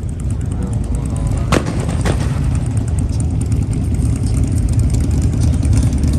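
Camaro SS V8 engine running hard at high revs, getting louder, with two sharp cracks about a second and a half and two seconds in.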